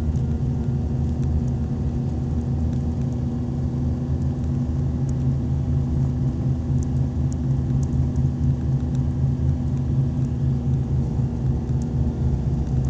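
Engine and road noise of a moving vehicle: a steady low rumble.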